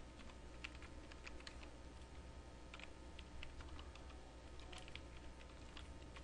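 Faint typing on a computer keyboard: irregular keystrokes, several a second, over a low steady hum.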